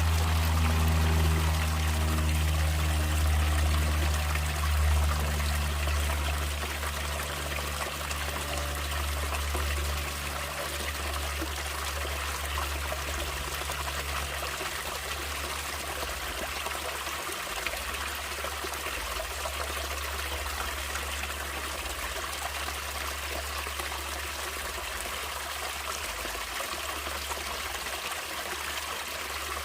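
Running stream water, a steady trickling, splashing flow. Low held tones are loudest at the start and fade out over the first several seconds.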